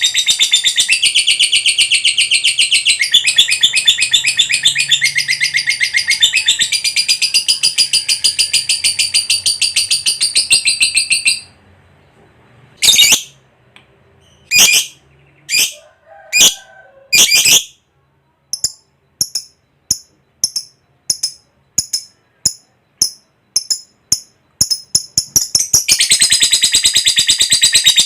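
Lovebird in its long 'ngekek' chatter: a fast, shrill stream of repeated notes, broken near the middle by a few loud single calls and a run of short chirps about two a second before the rapid chatter starts again.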